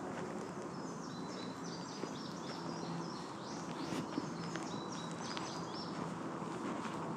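A songbird singing two long, rapid phrases of high chirping notes, over footsteps on a path and a steady low hum.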